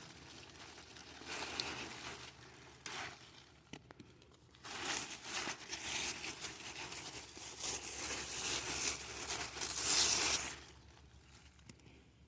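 Cucumber vines and leaves rustling and crinkling as they are pushed aside by hand, in bursts, the longest and loudest from about five to ten seconds in.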